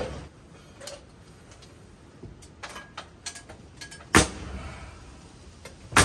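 Two loud, sharp knocks about two seconds apart, from nails being driven into a small piece of wooden board-and-batten siding. Faint ticks and taps come before them as the board is handled against the wall.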